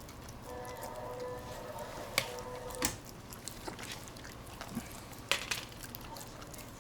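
A Spitz-mix dog licking and chewing at a canned food treat, with a few sharp clicks, a couple in the first half and one about two thirds in. A faint steady tone with several overtones runs through the first half.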